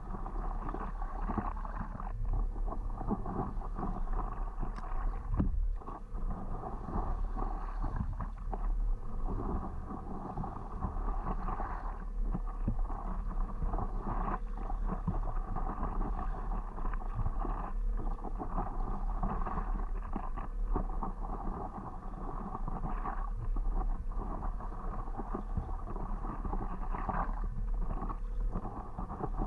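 Water splashing and lapping against a stand-up paddleboard as it is paddled, a steady wash with many small splashes.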